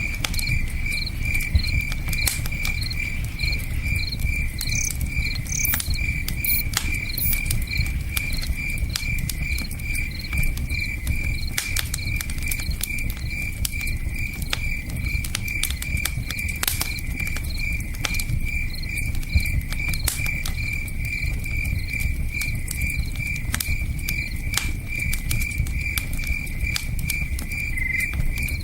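Crickets chirping in a steady, even pulse of about three chirps a second. Over it, a campfire crackles and pops in scattered sharp snaps, with a low steady rush beneath that fits a river.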